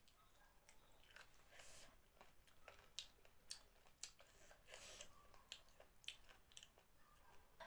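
Close-up chewing of food, with irregular sharp mouth clicks and smacks.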